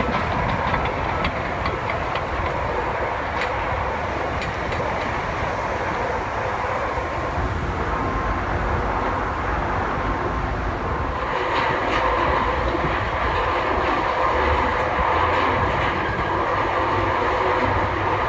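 Heavy earthmoving equipment running steadily, with engine and machinery clatter, growing a little louder about eleven seconds in.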